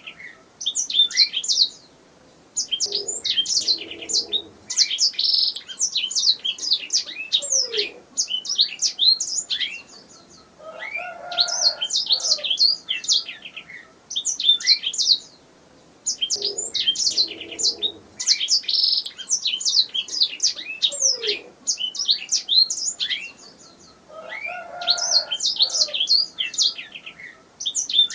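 Domestic canary singing: phrases of rapid, high chirps and trills a few seconds long, broken by short pauses.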